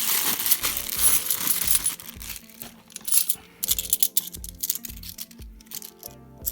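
A handful of £2 coins clattering and clinking against one another as they are sorted by hand: a dense clatter for the first two seconds, then scattered sharp clinks. Background music with a steady beat plays underneath.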